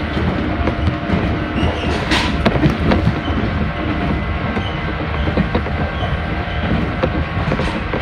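Electric train running along single track, heard from inside the cab: a steady rumble of wheels on rail with a couple of sharp clicks, about two seconds in and near the end.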